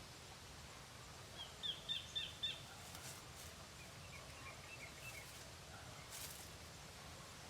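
A small bird chirping over steady outdoor background noise: a quick run of about five short, high notes about a second and a half in, then a fainter run of notes a few seconds later.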